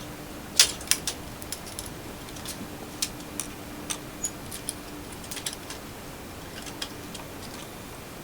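Irregular light metallic clicks and taps of small metal parts being handled, the loudest about half a second in, over a faint steady hum.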